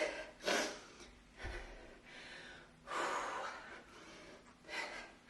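A woman's hard, effortful breathing: four sharp exhales and gasps about a second or more apart while she works through repeated kettlebell cleans. A dull low thud comes with the second breath.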